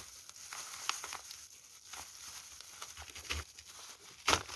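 Hands working at something being re-fastened: soft rustling and scattered light clicks, with one sharper knock near the end.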